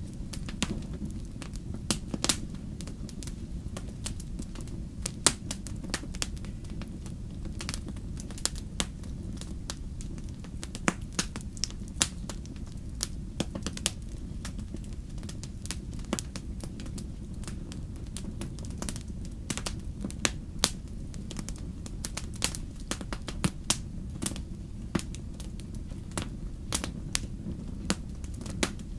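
Campfire burning steadily with a low rumble of flames and frequent sharp, irregular crackles and pops from the burning wood.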